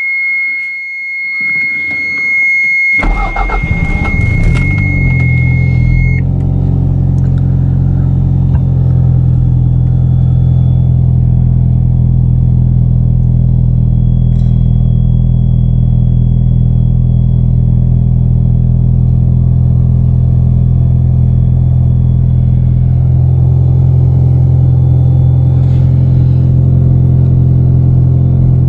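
1991 Toyota MR2 Turbo's 2.0-litre turbocharged four-cylinder engine cranking and starting about three seconds in, after a steady high warning tone, then settling into a steady idle.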